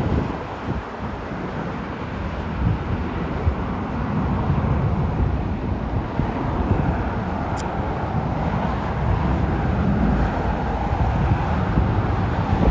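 Steady outdoor rumble with wind buffeting the microphone.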